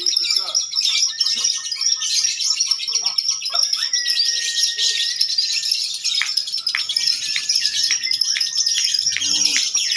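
Lovebirds chattering in a fast, continuous high-pitched trill, the long 'ngekek' song that lovebird contests judge by its length.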